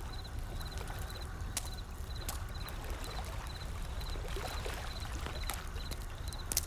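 Wood fire crackling with scattered sharp pops over the low, steady rumble of ocean waves, with a wave washing in about halfway through. A high chirping in quick triplets repeats about twice a second throughout.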